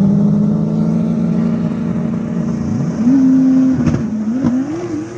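Drag-racing car engine running loud at a steady pitch, then revving up about two and a half seconds in, holding high briefly, and dropping and surging again near the end.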